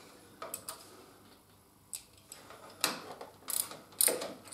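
Hand socket ratchet clicking in a few short, uneven bursts as the pinch bolts on a motorcycle's lower fork clamp are run in but not yet tightened.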